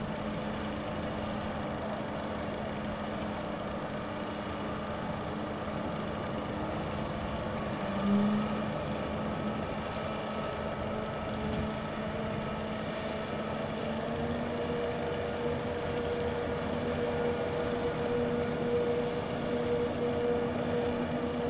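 Boat engine running steadily with a low hum. A brief louder swell comes about eight seconds in, and from about two-thirds through the engine note shifts to a higher held tone.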